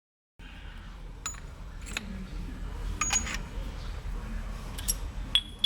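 Metal parts clinking and clicking against each other several times at irregular intervals, over a low steady hum. The sound cuts in abruptly about half a second in, and the loudest clink comes at the very end.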